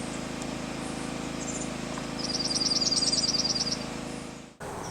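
Dark-eyed junco singing: one rapid trill on a single high pitch, about ten notes a second, lasting about a second and a half, with a few short, higher twitters. A steady low hum runs underneath, and everything cuts off abruptly just before the end.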